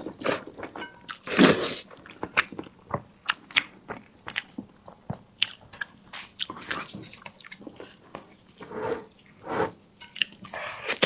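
A person eating close to the microphone: chewing with many sharp, wet mouth clicks and smacks, and a few louder noisy bursts lasting about half a second each, one about a second and a half in and others near the end.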